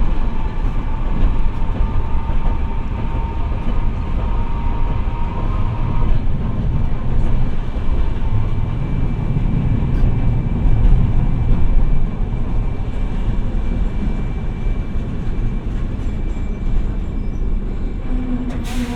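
Hiroden 700-series streetcar running, heard from on board: a steady low rumble from the wheels and running gear. A thin whine rises slightly in pitch and stops about six seconds in, and there is a sharp click near the end.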